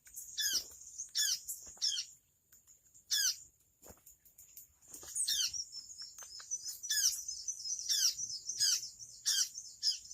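Bird chirping: repeated short, sharp notes, each falling steeply in pitch, coming every half-second or so, with a brief pause a couple of seconds in. A steady high-pitched whine runs underneath.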